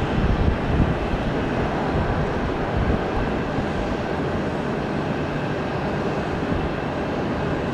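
Jet airliner engines running with a steady rumble.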